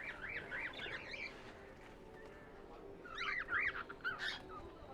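Small pet parrots chattering in quick warbling calls, in two bouts: one in the first second and another from about three seconds in.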